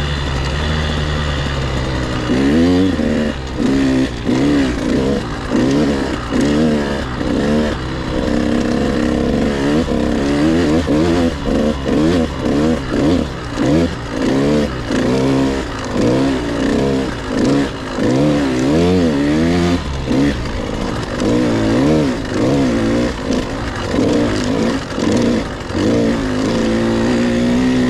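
Husqvarna TC 85 two-stroke motocross bike riding hard, its engine revving up and down again and again, with quick dips in between, as the throttle is worked on the trail. Wind rushes over the helmet-mounted camera's microphone throughout.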